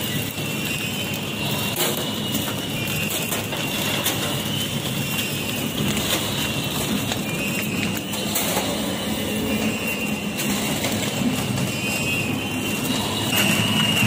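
Horizontal flow-wrap packing machine running, wrapping noodle cakes in film: a steady mechanical clatter with frequent clicks and a high steady whine, growing louder near the end.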